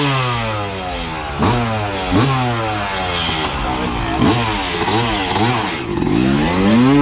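Dirt bike engine revved hard in repeated throttle blips, the pitch jumping up sharply about half a dozen times and sliding down between them.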